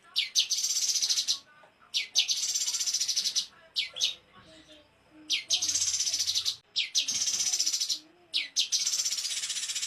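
A small songbird singing a high, rapid buzzing trill, the 'tembakan' (rapid-fire) song. Each phrase lasts about a second and opens with a couple of sharp notes, and the phrase repeats about five times with short gaps.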